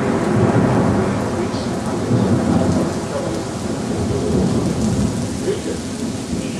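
A long rumble of thunder slowly fading away, over steady light rain.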